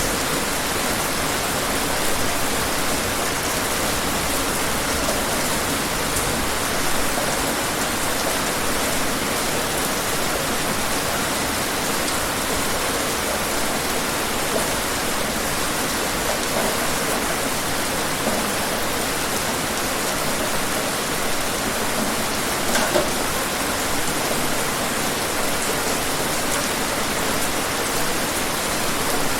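Steady rain falling, an even hiss with many fine drop patters and a few louder drops.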